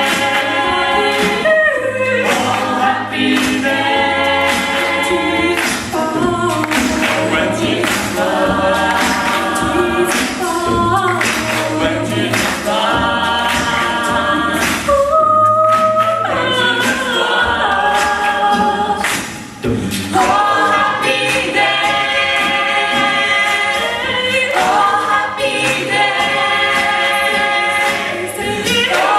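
An a cappella vocal group singing a gospel number in close harmony over a sung bass line, with no instruments. About halfway through, it thins briefly to one held note.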